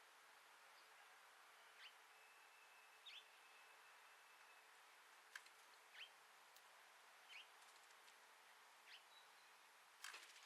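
A small songbird chirping faintly, five short single chirps spaced a second or two apart, over a steady hiss. There is a sharp click about halfway through and a cluster of clicks near the end.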